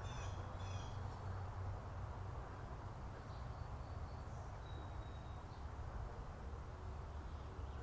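Quiet outdoor ambience: a steady low rumble with a few faint bird chirps in the first second and a brief thin whistle about five seconds in.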